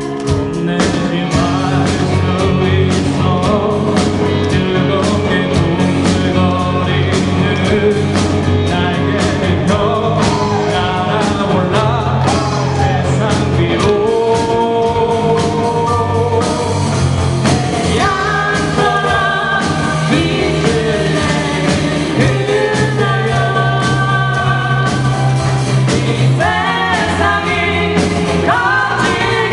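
A live amateur band playing a song: a singer's voice over bass, guitar-band backing and a steady drum beat.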